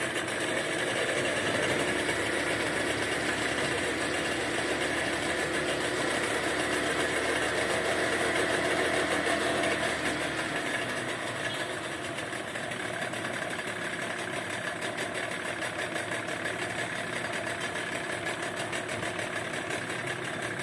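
New speedboat engine running during its warm-up, a steady mechanical drone that drops to a lower, quieter note about halfway through.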